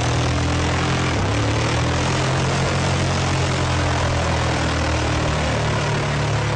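The 502 cubic inch gasoline V8 of a 1967 Chevy truck, running with a steady, loud drone. Its note dips briefly about a second in.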